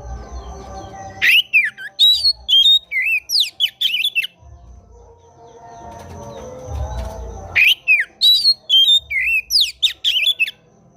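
Oriental magpie-robin (kacer) singing two bursts of fast, loud phrases of sweeping whistled and harsh notes, one starting about a second in and one near eight seconds. A low murmur runs between the bursts.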